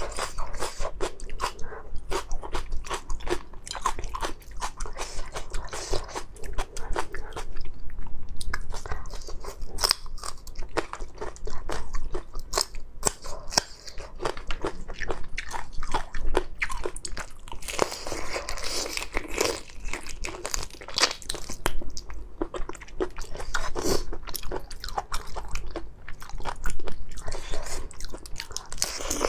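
Close-miked eating of spicy raw marinated prawns: biting and chewing, with many small irregular crunches and crackles as the prawns are bitten into.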